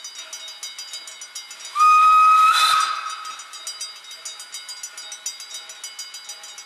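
Steam locomotive whistle giving one short blast of about a second: a single steady note with a hiss of steam. Behind it, a level-crossing bell rings in a rapid, regular beat.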